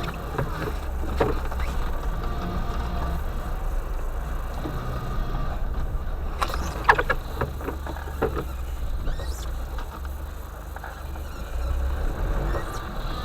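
Low, steady rumble of a UAZ Bukhanka van's engine as it drives off-road through forest, with a few sharp knocks about seven seconds in.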